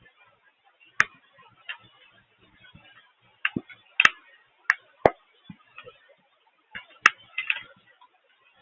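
Irregular sharp taps of water drops striking a hard surface close to the microphone, about a dozen with no steady rhythm, over a faint hiss of rain.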